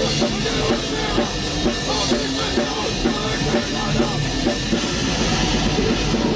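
Black metal band playing: a drum kit and guitars in a loud, dense, unbroken wall of sound.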